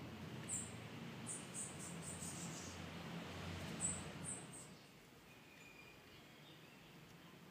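Faint, very high-pitched bird chirps in short clusters over a low background hum. The chirps and the hum fall away about five seconds in.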